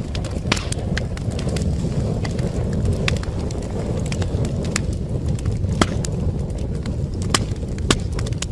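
Wood fire burning in a fireplace: a steady low rumble of flame with irregular sharp crackles and pops, several of them loud.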